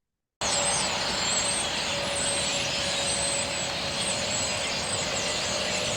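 A flock of many small birds chirping and twittering together over a steady hiss. It cuts in just after the start and stops abruptly about a second after the end.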